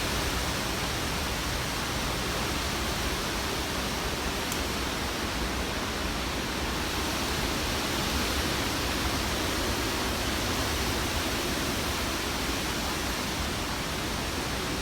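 Hurricane wind blowing steadily, a constant dense rush of noise that does not let up.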